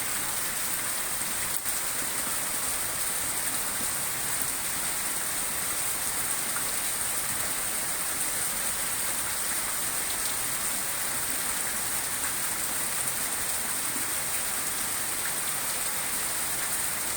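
Rain falling steadily, an even, unbroken hiss of rain on surfaces.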